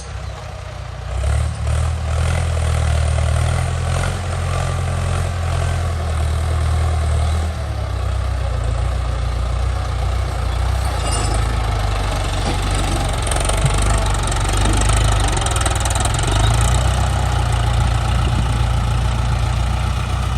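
Ford 6600 tractor's three-cylinder diesel engine running steadily. Its note shifts about seven and a half seconds in.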